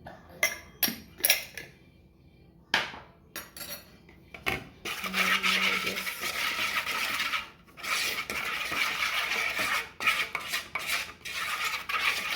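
Kitchen utensils and dishes clinking as spices are measured into a bowl: a quick run of sharp clinks, then several seconds of continuous scraping and rattling with short breaks.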